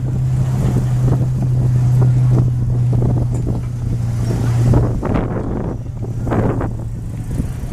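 Wind buffeting the microphone in uneven gusts, over a steady low engine hum.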